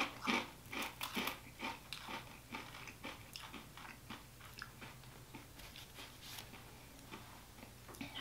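Crunchy corn puff snack being chewed: crisp crunches close to the mouth, densest in the first three seconds, then thinning out to faint, sparse chewing.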